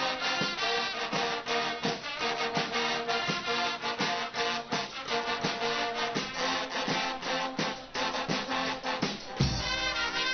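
Guggenmusik carnival band playing live: brass over a steady drum beat. About nine seconds in a loud hit lands and a held brass chord follows.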